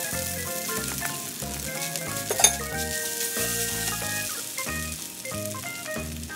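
Noodles sizzling in a hot frying pan as they are tossed and stir-fried, with one sharp clink about two and a half seconds in. Background music with a stepping bass line plays throughout.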